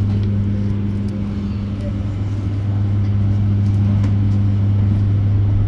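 Inside a moving electric bus: a steady low electric hum over the rumble of the ride.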